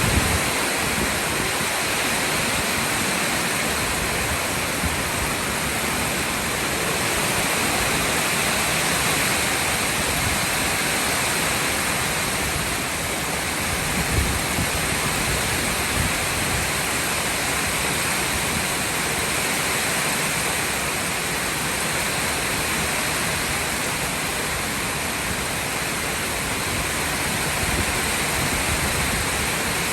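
Heavy rain falling, a steady even hiss of downpour that barely changes.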